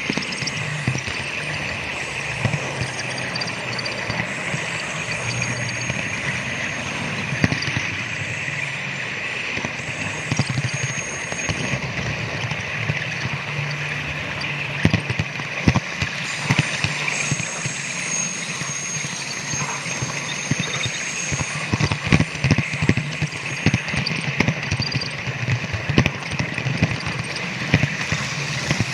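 Model train running along a home layout's track: a steady whir with irregular clicking of the wheels over rail joints, the clicks coming thicker in the second half.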